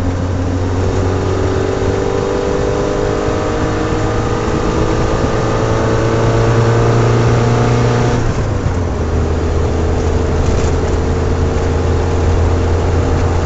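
1985 AMC 150 2.5-litre inline-four, fitted with a Weber 38/38 carburettor, pulling at wide-open throttle, its pitch rising steadily. About eight seconds in the pitch drops sharply, as at a shift of the manual gearbox, then climbs slowly again.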